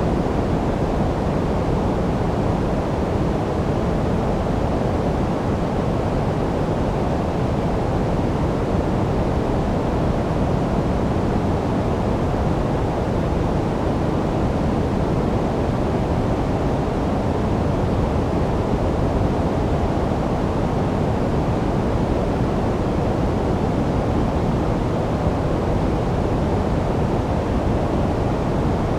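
Steady, unchanging noise of the kind played for sleep, dark rather than bright: a full, dull hiss with most of its weight low down and little treble.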